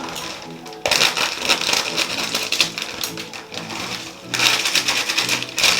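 Plastic snack packet crinkling loudly as it is handled and torn open, in two long stretches of rapid crackling.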